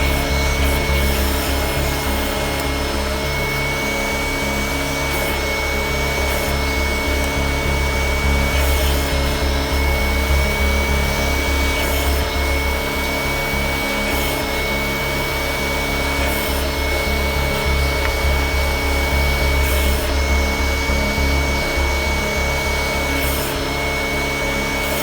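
A powered carpet-cleaning tool running against carpet: a steady motor whine and hum under a continuous scrubbing rub.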